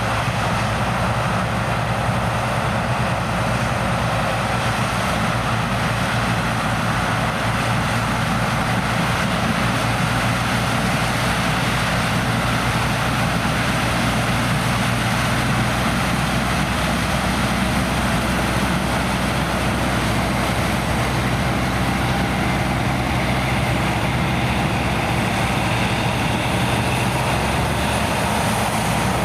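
Heavy diesel farm machinery running steadily under load during a corn harvest, a low constant engine tone under a broad mechanical rush.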